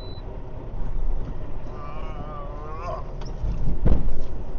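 Semi truck's diesel engine running low and steady as the tractor is eased back to line up with a trailer, with a heavy low thump about four seconds in.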